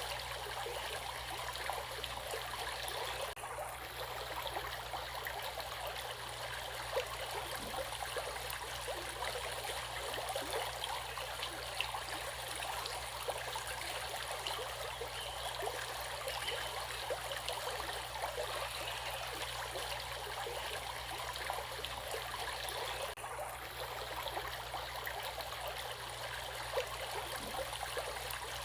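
Running water flowing steadily, like a stream.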